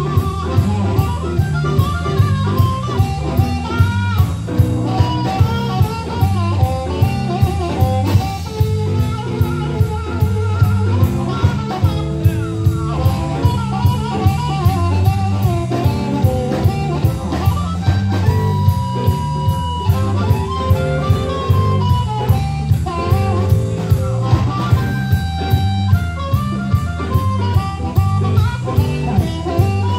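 A live band playing a blues-style number, with guitar over a drum kit keeping a steady beat.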